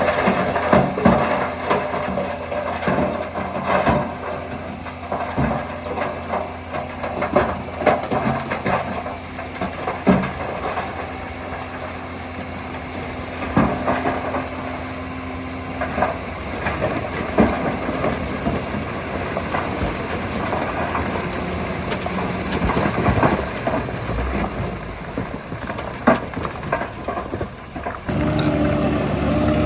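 Heavy diesel earthmoving machine running steadily, with frequent short clanks and knocks over the engine hum. About two seconds before the end the sound changes abruptly to a smoother, steadier engine note.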